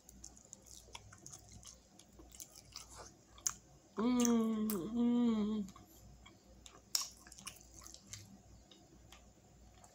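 Close-up wet chewing and mouth clicks of a person eating sauce-covered chicken wings, with a loud hummed "mmm" of enjoyment in two parts about four seconds in.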